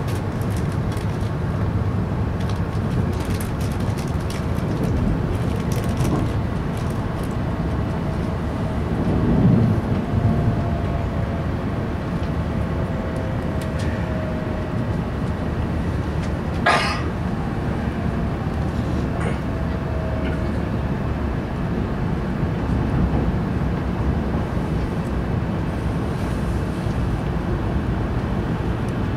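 Running noise of an E5 series Shinkansen heard inside the passenger cabin: a steady low rumble of the train on the track, with a faint whine slowly falling in pitch as it slows into a station. A single sharp click sounds about 17 seconds in.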